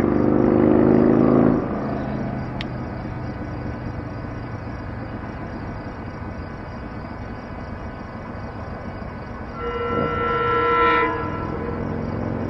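SEPTA commuter train's horn sounding two separate blasts: one of about a second and a half at the start, and a second of about a second and a half some ten seconds in. Steady noise fills the time between the blasts.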